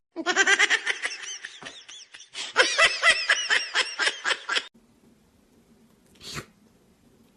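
A person laughing in a long run of quick, breathy bursts that stops about two-thirds of the way in, followed by a short faint sound near the end.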